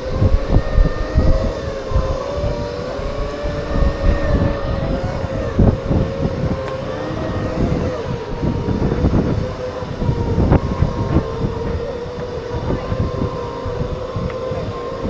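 Segway's electric drive whining steadily as it rolls, its pitch wavering a little with speed, over gusty wind rumble on the microphone.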